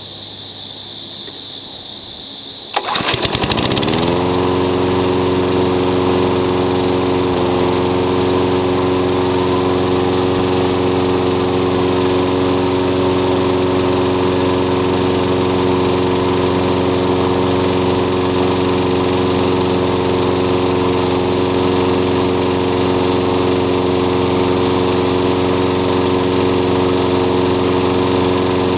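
Craftsman walk-behind lawn mower's small engine starting about three seconds in, catching at once and rising quickly to speed, then running steadily at a constant speed, freshly tuned up.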